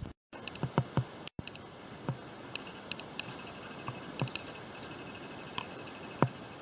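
Quiet outdoor ambience in bushland: scattered light clicks and ticks over a faint background hiss, with a single thin, high whistled note lasting about a second about four and a half seconds in.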